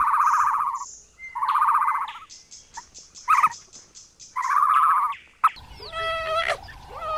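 Animal calls: four buzzy, rapidly pulsed calls, each about a second long except a short third one. From about five and a half seconds in, a different animal gives repeated higher, whining calls.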